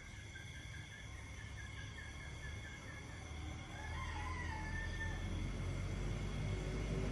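Night chorus of insects and frogs: several steady high-pitched tones, with a pulsed trill of about five beats a second that stops a little past three seconds in. About four seconds in comes a single rising-then-falling call, and a low rumble grows louder toward the end.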